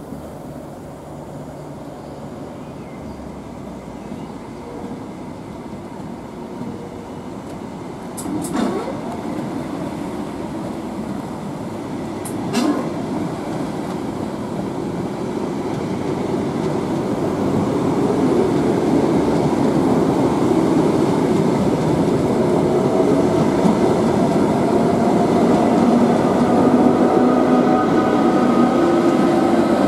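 Loco-hauled train of Mark 3 coaches with a Class 90 electric locomotive moving slowly along the line, its wheels rumbling on the rails. The sound grows steadily louder as the locomotive comes near, with a slightly rising motor whine in the last several seconds. There are two brief high squeals, about eight and twelve seconds in.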